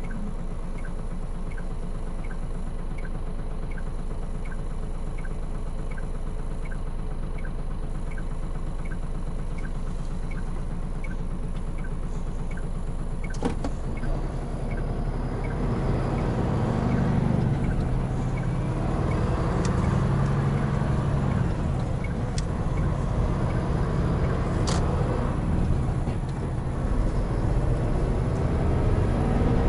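Hino Profia heavy truck's diesel engine heard from inside the cab, running steadily while an indicator ticks evenly. About halfway through there is a click, the ticking stops and the engine gets louder and works harder.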